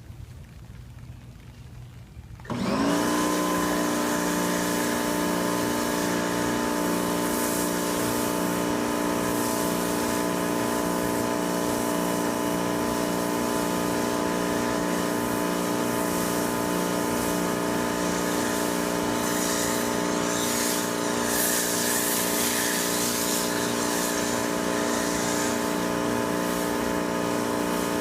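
AR Blue Clean AR390SS electric pressure washer cutting in about two and a half seconds in and running steadily, its motor and pump giving a steady whine over a fast pulsing hum. A water-spray hiss rises for a few seconds near the middle.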